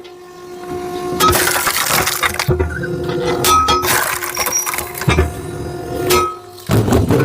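Firewood being split: a series of sharp cracks and splitting noises, roughly one a second, some with a short metallic clank. A steady low hum runs underneath.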